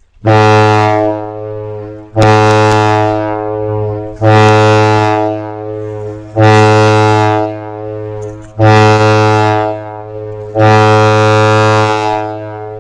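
Warning horn sounding six steady, low-pitched blasts about two seconds apart, each starting sharply and fading off: a test-site warning signal before a rocket cold flow test.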